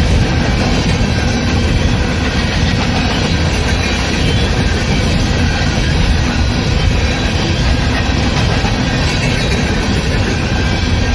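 Train cars rolling past on the rails with a steady, loud rumble and rattle.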